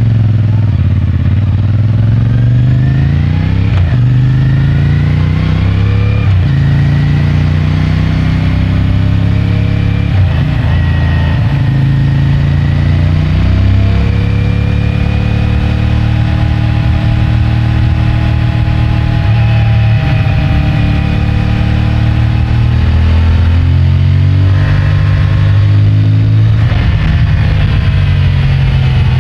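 CFMOTO 450MT's parallel-twin engine through its stock exhaust, accelerating up through the gears: the pitch climbs and drops back briefly at each of several upshifts. It then settles into a steady cruise, with the revs dipping and climbing again near the end.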